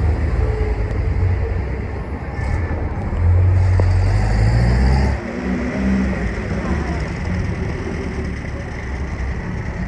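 A car engine running close by, louder and rising slightly in pitch for about two seconds near the middle before dropping back.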